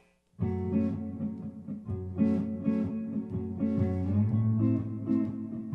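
Band starting a song about half a second in: a guitar plays a riff over a moving bass line.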